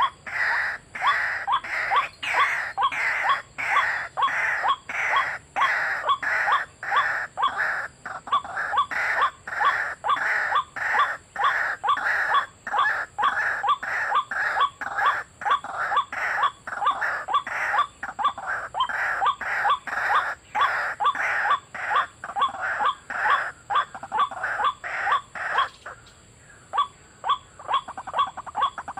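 White-breasted waterhen calling: a loud, rhythmic series of repeated harsh notes, about two a second, that keeps going without a break except for a brief dip near the end.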